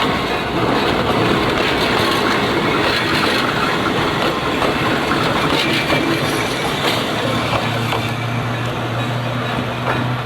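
Two-car electric railcar train on the Meitetsu Tanigumi Line running on jointed track, its wheels clicking over the rail joints. A steady low hum joins in about three-quarters of the way through.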